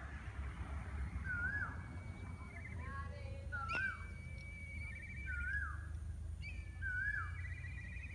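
Birds calling: one repeats a short whistled note that rises and falls, about once a second, while another gives longer trilling calls over it. A low rumble runs underneath, and there is a single sharp click about four seconds in.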